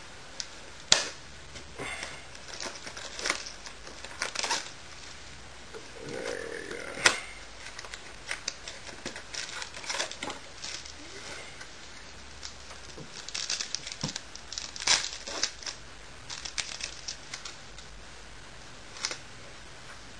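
Trading card mini box and packs being opened by hand: wrappers crinkling and tearing, with scattered clicks and rustles of cardboard and cards being handled.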